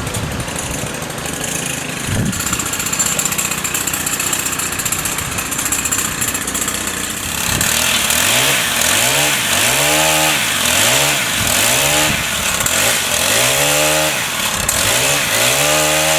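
Chainsaw engine running at low revs, then revved up and down repeatedly from about eight seconds in, each rev rising and falling in pitch about once a second, and held at high revs near the end.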